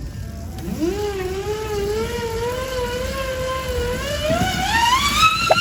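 A small electric motor on a bike whining as it speeds up. The pitch rises about a second in, wavers while holding roughly steady, then climbs higher near the end before cutting off suddenly.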